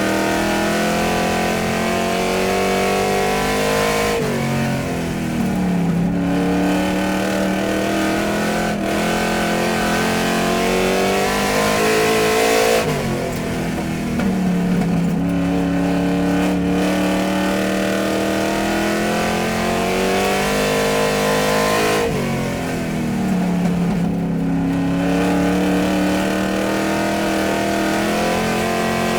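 Car engine running under throttle; its note climbs slowly, then drops sharply and climbs again, three times over, about nine seconds apart.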